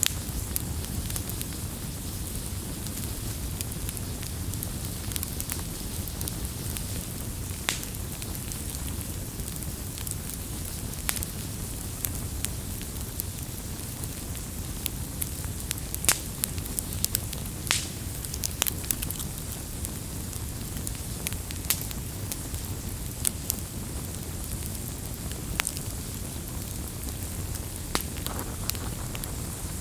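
Campfire burning with a steady low rumble of flames and frequent sharp, irregular crackles and pops from the burning wood.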